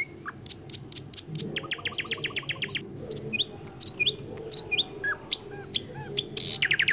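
Small birds chirping: scattered short, high chirps, with a rapid, evenly spaced trill about a second and a half in and another near the end.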